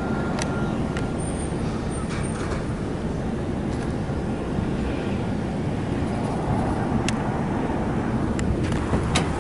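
Steady road traffic noise, with a few sharp clicks scattered through it.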